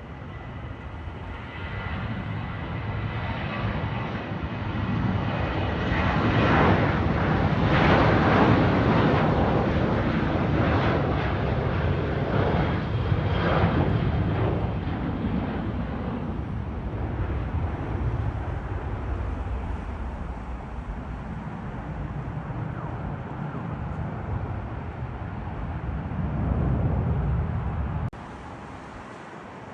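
Airliner's engines passing close by: a loud rush with a thin high whine that swells to a peak and slowly eases off, then cuts off suddenly near the end.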